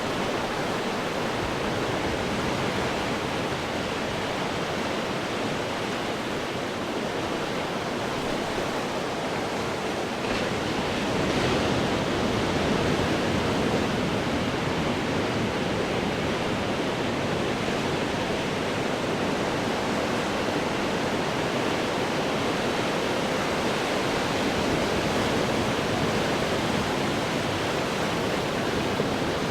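Ocean waves crashing on rocks: a steady wash of surf, with a wave swelling louder about ten seconds in.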